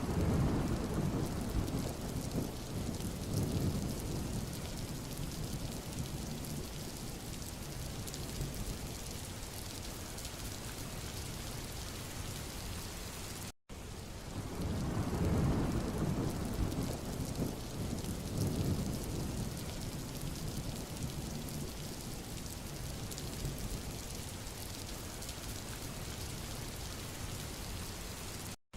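Steady rain falling on a road, an even hiss, with a low rumble that swells up and fades over several seconds. The sound cuts out for an instant about halfway through, and the same rumbling swell comes again.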